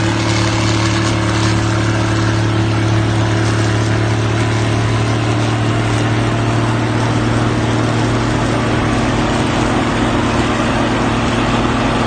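Cummins diesel engine running steadily at a constant speed, its pitch and loudness unchanging.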